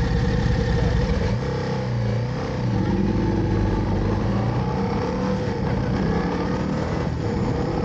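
Motorcycle engine running, easing off about a second in and then rising in pitch as it accelerates, over a steady rumble.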